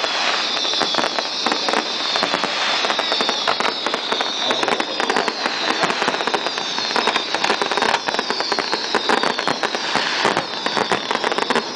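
Aerial fireworks display, a dense barrage of rapid crackling and popping bursts, with a high sound sliding down in pitch about every second and a half.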